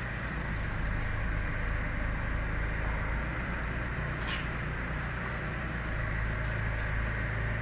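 Steady low hum and noise of workshop machinery, with a couple of faint ticks about four and seven seconds in.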